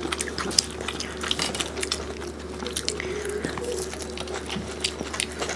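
Close-miked chewing and biting: wet smacking and many small mouth clicks as people eat rice and curry with their fingers.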